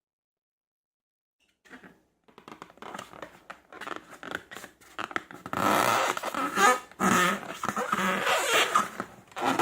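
Slime being squeezed and worked by hand, a dense run of sticky crackles and squelches with small air-pocket pops. It starts after a moment of silence and builds up about halfway through.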